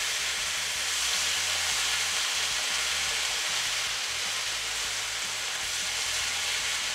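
Rice and chickpeas sizzling steadily in a hot nonstick frying pan as they are stirred with a silicone spatula.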